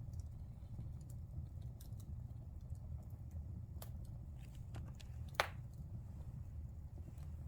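Wood fire burning in a fireplace: a steady low rumble of the flames with scattered small crackles, and one sharp, louder pop about five and a half seconds in.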